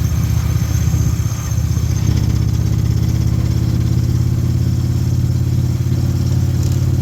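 Motorcycle engine running at a steady speed with an even, pulsing exhaust note.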